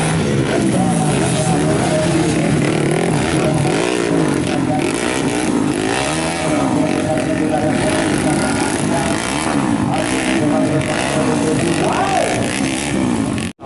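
Modified underbone motorcycle engines revving, several at once, their pitches repeatedly rising and falling over one another. The sound cuts out suddenly for a moment near the end.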